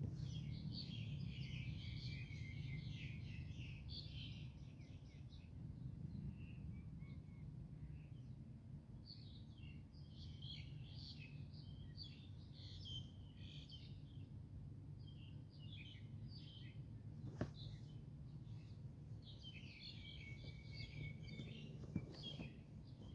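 Small birds chirping and twittering in several spells of quick high notes over a low, steady background rumble, with one sharp click about seventeen seconds in.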